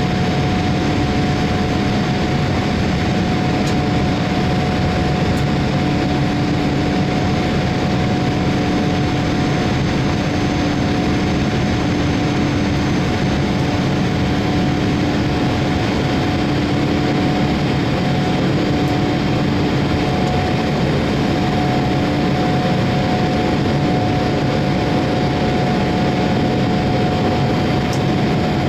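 Jet engines of a Boeing 787-8, Rolls-Royce Trent 1000s, running steadily: a constant loud rumble with a steady whine on top and no rise or fall in pitch.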